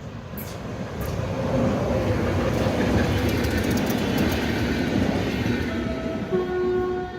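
EFE passenger train UTS610 running past, its loud rumble and wheel clickety-clack swelling and then easing. A steady train horn sounds near the end.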